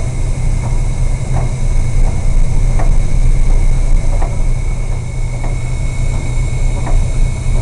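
Ship's machinery running steadily: a heavy low rumble with a thin high whine on top and a faint light tick repeating a little more than once a second.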